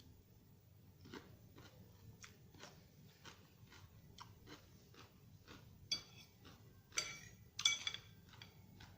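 Close-up chewing of a crunchy raw vegetable salad, a steady run of crisp crunches about two or three a second, with a few louder crunches near the end.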